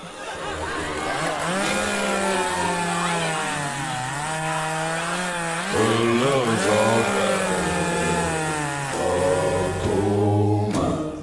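Chainsaw revving, its pitch repeatedly rising and falling, cutting off suddenly near the end.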